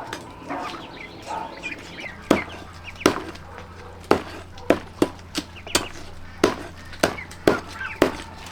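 Chopping with a blade: a run of sharp knocks, few at first, then about two a second at an uneven pace.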